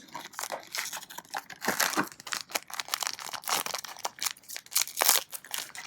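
Crinkling and tearing of a trading-card booster pack wrapper being opened and handled: a dense run of irregular crackles.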